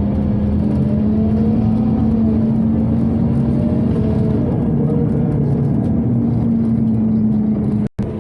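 Scania Omnicity city bus on the move, with a steady ventilation hum under an engine note that rises and then falls back. The sound cuts out abruptly for an instant near the end.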